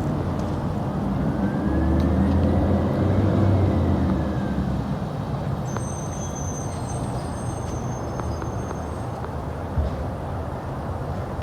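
Garbage truck's diesel engine running, rising in level for a couple of seconds as it works, with a thin high-pitched squeal near the middle.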